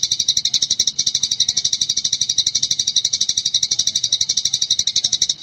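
Eurasian tree sparrow chirping in the fast, unbroken 'gecor' style: a rapid string of high, even chirps, about a dozen a second, with a brief break about a second in.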